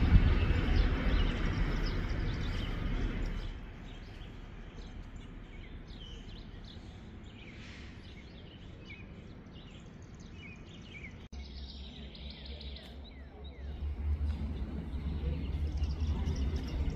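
The rumble of a freight train dies away over the first three seconds or so, leaving birds chirping over a quiet background. After a sudden cut about eleven seconds in, a low rumble sets in and grows louder near the end.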